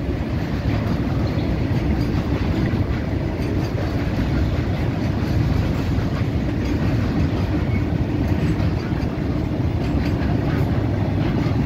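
Indian Railways freight train of covered goods wagons rolling past close by: a steady rumble and rattle of steel wheels on the rails.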